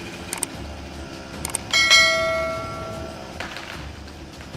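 A single ringing metallic strike, like a bell, that fades over about a second and a half. Two short pairs of sharp clicks come before it.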